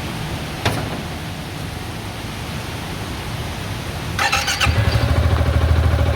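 Yamaha XMAX 300 scooter's single-cylinder engine cranked by its starter, catching about four seconds in and settling into a steady idle. It is started briefly after an oil refill to circulate the fresh oil.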